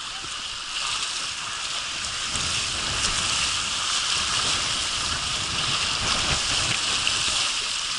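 Water rushing steadily down a tube water slide, an even hiss with a low rumble under it.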